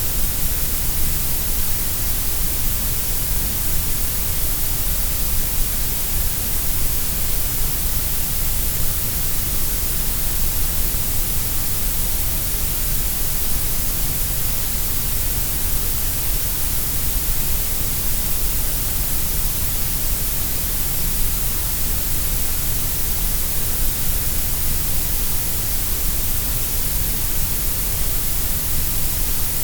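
Grey noise: a steady, unchanging hiss, shaped so that the lows and highs are stronger than the middle.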